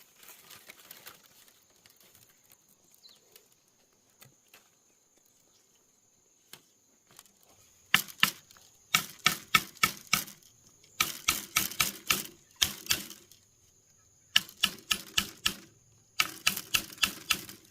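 Rapid, rhythmic knocks in five bursts of several strokes each, about five strokes a second, with short pauses between the bursts; they start about eight seconds in.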